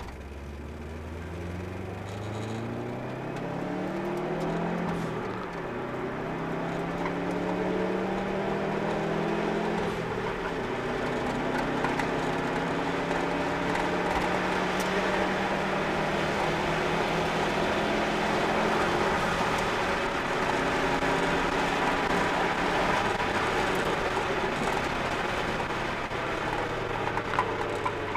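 Subaru Impreza WRX's turbocharged flat-four engine through its Invidia cat-back exhaust, heard from inside the cabin, pulling hard: revs climb, drop at a gear change about five seconds in, and climb again to about ten seconds. After that it runs at high revs, fairly steady, under a strong hiss of road and wind noise at track speed.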